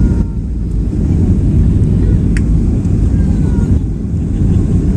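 Loud, steady low rumble of a Boeing 737 heard from inside the cabin during landing, with one short click about halfway through.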